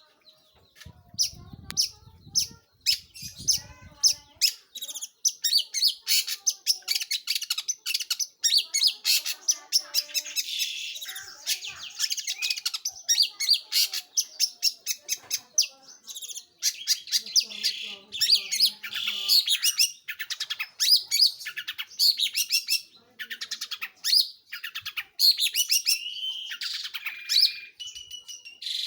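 Long-tailed shrike (pentet/cendet) singing a rapid, nearly unbroken chatter of short, sharp, high notes.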